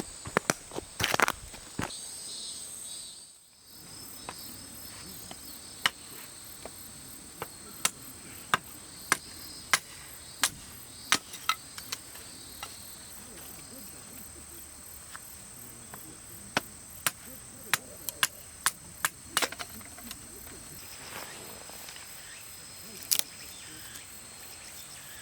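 Insects, crickets among them, trilling steadily in a high band, with scattered sharp clicks and cracks every second or so. The sound drops out briefly about three and a half seconds in.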